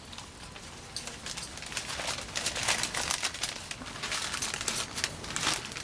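Plastic or paper packaging being handled, crinkling in quick, irregular crackles that start about a second in.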